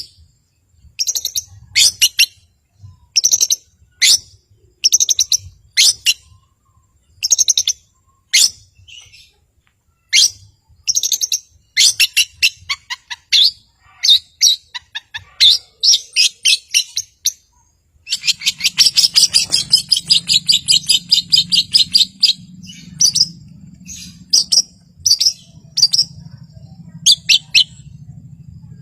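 Long-tailed shrike (cendet) singing a loud series of short, sharp, high-pitched call phrases, each about half a second long, with short pauses between them. About two-thirds of the way through, the calls turn into a faster, almost continuous chatter over a low hum.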